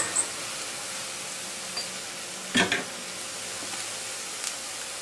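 Oil sizzling steadily under egg fu yung patties frying in a cast iron skillet, the heat a little too high. A brief clatter comes about two and a half seconds in.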